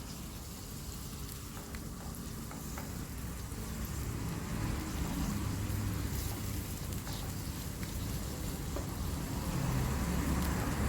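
Food sizzling and frying in a pan over a wood fire, with faint scattered crackles. A low rumble grows louder toward the end.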